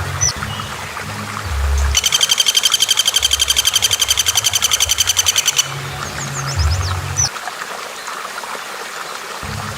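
Recorded wild bird calls: about two seconds in, a loud, fast rattling call of rapidly repeated high notes lasts almost four seconds, followed by a few short, high down-slurred chirps. A low rumble runs underneath and drops out for about two seconds near the end.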